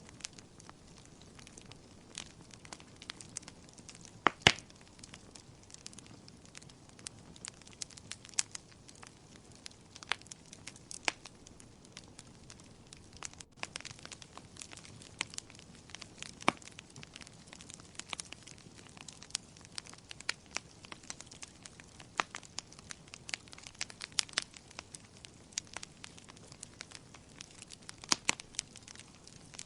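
Wood fire crackling in a fireplace: irregular sharp pops and snaps over a low steady hiss, the loudest pop about four and a half seconds in.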